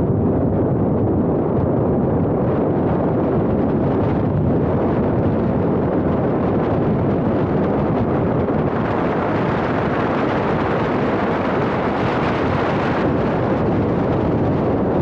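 Car driving, with a steady rumble of wind and road noise buffeting a small action camera's microphone. A brighter hiss joins from about nine seconds in until about thirteen seconds.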